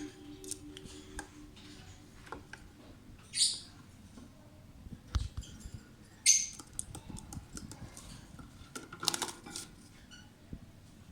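Lovebirds in a cage: scattered light clicks and taps, with a few short, high chirps, one about a third of the way in and another just past halfway.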